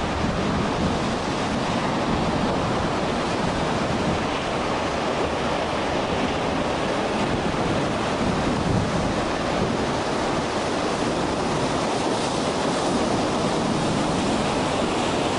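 Steady, loud rushing noise of a storm, with wind and heavy rain or hail beating on the microphone without a break.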